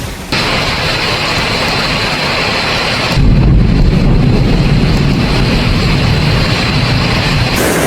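Steady rushing noise of a wind and rain storm, changing abruptly at cuts about a third of a second and three seconds in. The later part carries a heavy low rumble of wind buffeting the microphone.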